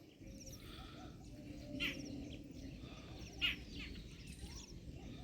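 Wild birds calling outdoors: small repeated high chirps, with two louder short calls about two seconds and three and a half seconds in, over a steady low rumble.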